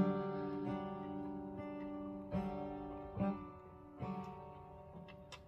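Acoustic guitar played softly, a note or chord plucked about every second and left to ring, the playing fading away toward the end.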